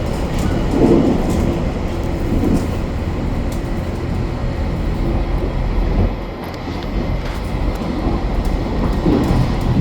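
Interior running noise of the limited express Hokuto diesel train: a steady low rumble with faint rail clicks.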